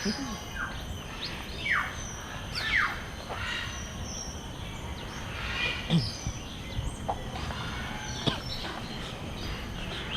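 Mixed calls of several birds in a walk-in aviary: short, sharp, downward-sweeping chirps and whistles scattered irregularly over a steady background hum.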